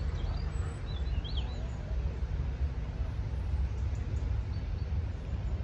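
Outdoor ambience carried by a steady low rumble, with a small bird giving a few quick, high chirps during the first second and a half.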